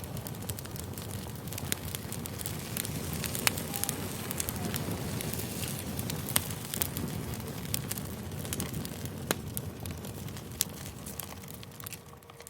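Campfire burning: a steady low rush of flames with frequent sharp crackles and pops of burning wood.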